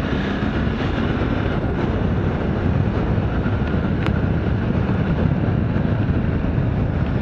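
Motorcycle riding along, its engine running under a steady rush of wind over a helmet-mounted microphone. One short sharp click about four seconds in.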